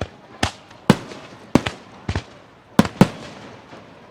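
Aerial firework shells bursting in quick, irregular succession: about seven sharp bangs, each trailing off in a short echoing tail.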